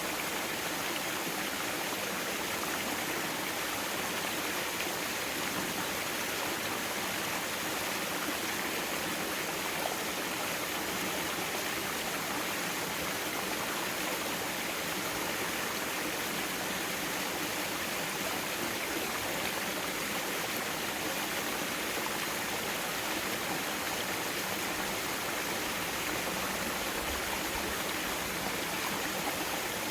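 Mountain valley stream flowing, a steady even rush of water over rocks.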